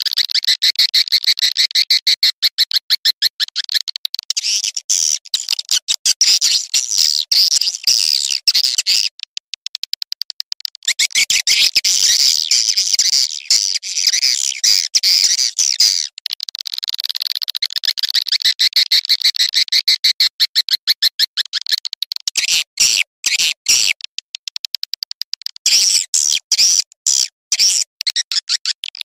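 Swiftlet lure call recording: rapid, high twittering trills of chirps from swiftlets (burung walet), in long runs broken by a few short pauses. This is the kind of call played to draw swiftlets into a nesting house.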